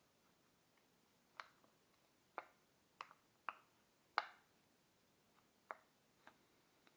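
About seven small, sharp clicks and taps at irregular intervals, each with a brief ring, the loudest about four seconds in: small hand tools and phone parts being handled and set down during a smartphone repair.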